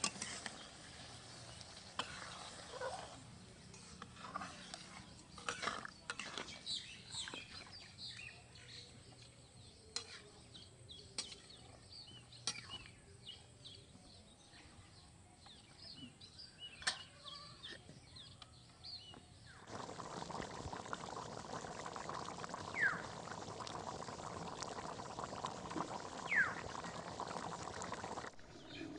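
Curry with bottle gourd simmering in a pot after water has been added, with scattered small pops and bubbling. About twenty seconds in, a steady boiling hiss starts abruptly and runs for several seconds before stopping just as suddenly.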